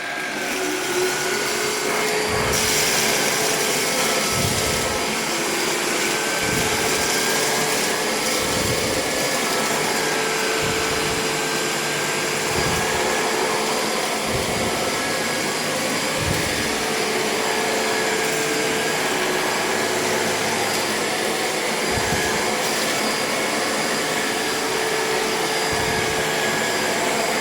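Electrolux WellQ7 cordless handheld vacuum switched on and spinning up, then running steadily with a motor whine over the rush of suction air. The pitch wavers slightly and there are occasional low thuds as the nozzle attachment is worked over a tabletop.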